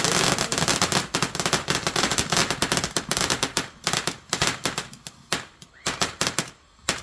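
Fireworks going off in a rapid crackling barrage of many sharp bangs, dense at first and thinning to a few separate bangs in the last couple of seconds.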